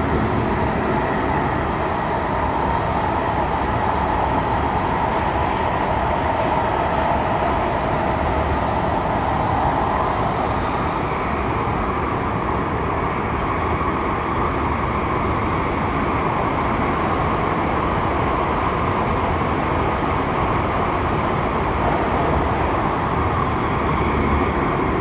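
Inside a Saitama Railway 2000 series electric train running at speed through a tunnel: a steady rumble of wheels on rail. A faint, high wheel squeal comes in for a few seconds about five seconds in.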